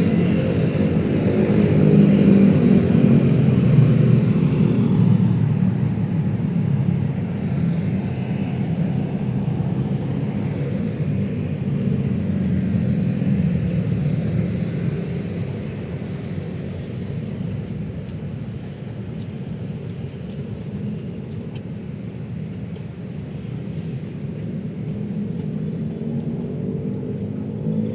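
Road traffic going by on a city street: car engines and tyres make a steady rumble that swells to its loudest a few seconds in, then slowly eases off.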